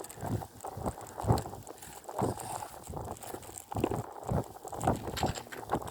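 Irregular knocks and thumps, about one or two a second, over a light hiss.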